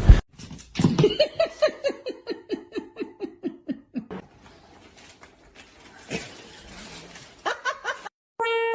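A person laughing: a run of quick ha-ha pulses, about four a second, that fall steadily in pitch over roughly three seconds.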